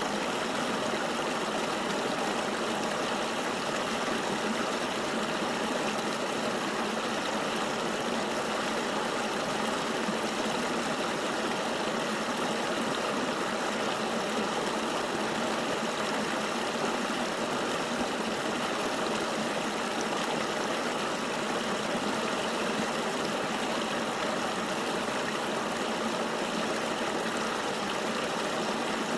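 Flowing river water rushing steadily: an even, unchanging hiss with little deep rumble.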